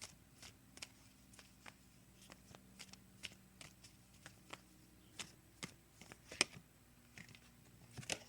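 A deck of oracle cards being shuffled and handled by hand: a scatter of light, sharp card clicks and flicks, with a louder snap about six seconds in.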